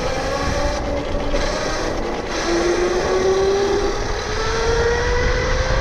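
Tuttio Soleil 1 electric dirt bike's motor whining under way over heavy wind noise. The pitch climbs, drops lower about two seconds in, then climbs steadily again as the bike picks up speed.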